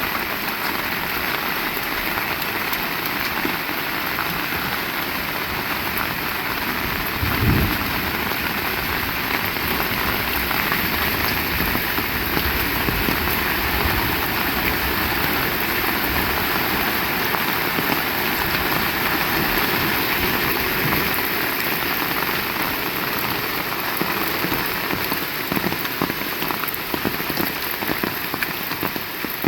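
Heavy rain falling steadily and hard, with one brief low thump about seven seconds in.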